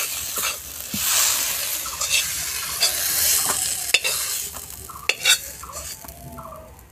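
A spatula stirring and scraping shrimp-and-onion stuffing around a hot metal karahi as it sizzles in oil. The sizzling dies down in the second half, and there is one sharp knock about five seconds in.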